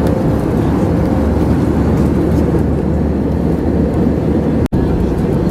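Steady cabin noise of an Airbus airliner in flight: an even rumble of engines and airflow with a faint steady hum. The sound drops out for an instant about four and a half seconds in.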